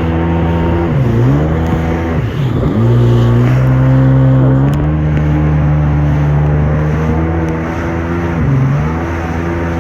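Jet ski engine running at speed, its pitch dipping and climbing back as the throttle is eased off and reopened about a second in, again around two and a half seconds, and once more near the end.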